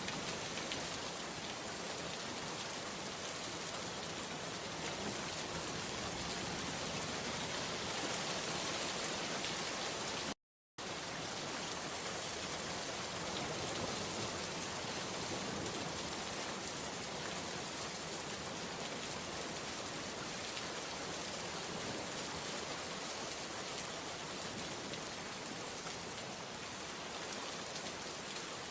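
Steady rain falling, an even hiss of drops striking surfaces. About ten seconds in, the sound cuts out to silence for a split second, then resumes unchanged.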